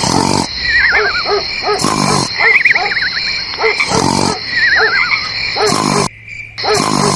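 Night-time wildlife sound effect of hooting and frog calls over a steady insect trill, repeating as a loop about every two seconds. It cuts out briefly about six seconds in and then resumes.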